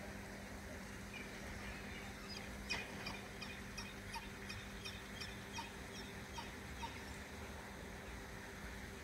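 Water birds calling: a quick run of short, high calls, about three a second, beginning nearly three seconds in and going on for about four seconds, over a faint steady hum.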